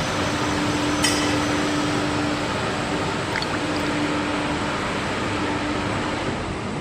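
Industrial machinery running: a steady noise with a steady hum that fades out near the end, and a single click about a second in.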